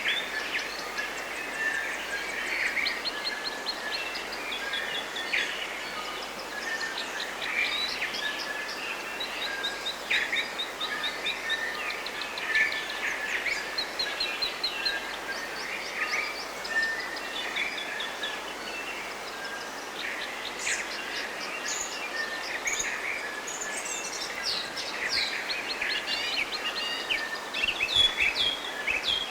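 Several forest songbirds singing together: chirps, trills and rapid runs of high ticks, over a steady hiss of a running stream.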